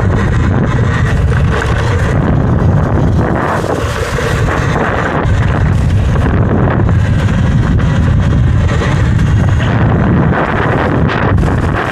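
Heavy wind buffeting on the microphone of a rider moving on a Talaria electric dirt bike, a loud, steady, low rumble that drowns out the quiet electric drive.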